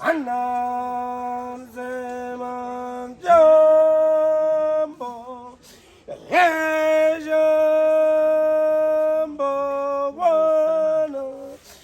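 A voice singing a slow line of long, steady held notes, each sliding up into pitch and held for one to three seconds before the next.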